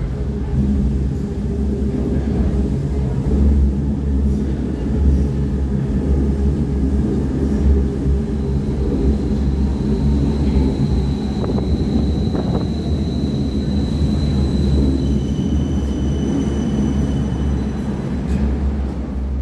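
Berlin U-Bahn JK-type train running between stations: a steady low rumble, with a thin high whine joining about eight seconds in and changing pitch near the end.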